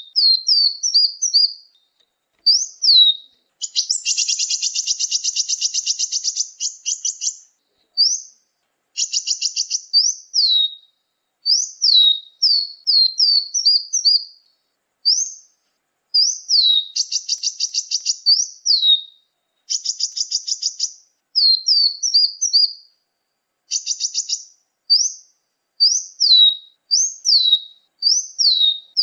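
Small songbirds' lure call recording: quick sharp high chirps that sweep down in pitch, given in short groups, broken up by buzzy rattling trills lasting a second or more.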